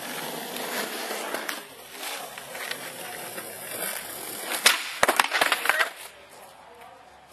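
Skateboard with a Black Label deck and Theeve trucks rolling, then a sharp wooden snap about four and a half seconds in followed by a second of clattering knocks as the board hits the ground.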